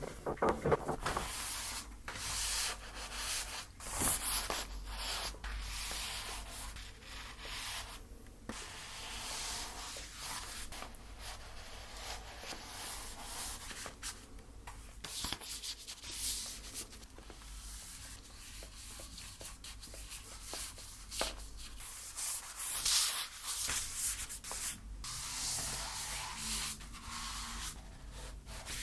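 Acrylic paint being worked onto a canvas: irregular scratchy rubbing strokes of a painting tool across the canvas surface.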